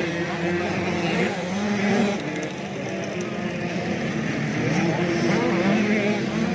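85cc two-stroke motocross bikes racing, their engines running at high revs and revving up and down.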